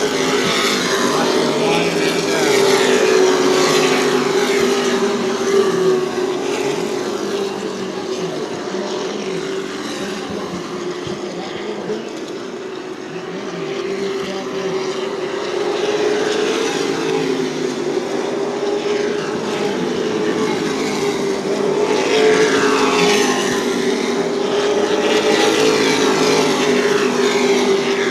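Super Truck race trucks' engines running at speed around a short oval track, the pack's sound swelling as the trucks pass, twice: once a few seconds in and again near the end.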